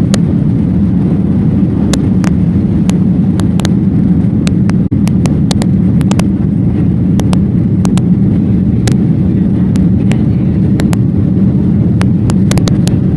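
Loud, steady low rumble of a moving vehicle heard from inside, with many sharp clicks scattered through it and a brief dropout about five seconds in.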